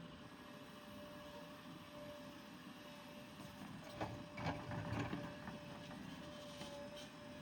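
JCB 3DX backhoe loader's diesel engine running steadily with a thin steady whine, and a brief clatter of knocks about four to five seconds in as the machine works.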